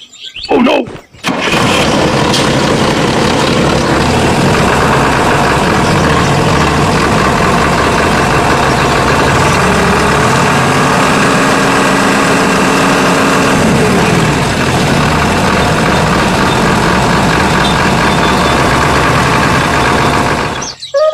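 Small motor of a DIY mini juice-grinding machine starting with a couple of short bursts about a second in, then running steadily, its pitch dipping and rising a little partway through, and cutting off near the end.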